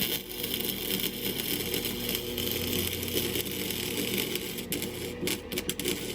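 Welding arc crackling and sizzling steadily as a joint on a steel exhaust pipe is welded.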